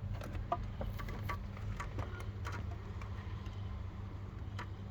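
Scattered light clicks and taps of hand work on engine-bay parts and wiring, over a steady low hum.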